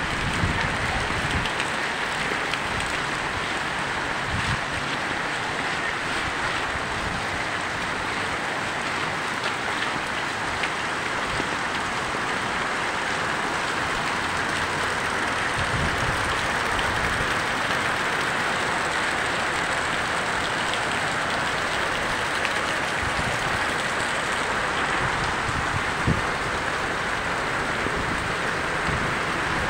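Heavy rain pouring steadily onto a flooded paved street, an even hiss of drops hitting standing water.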